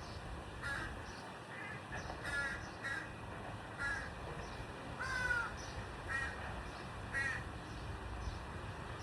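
A bird calling in a series of short, harsh calls, roughly one a second, with one longer call about midway.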